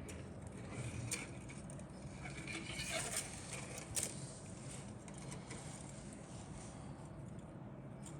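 Handling noises: a few light rustles and clicks, the sharpest about four seconds in, over a steady low hum.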